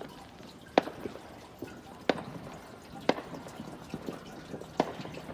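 Distant fireworks going off: four sharp bangs at uneven gaps of one to two seconds, the first the loudest.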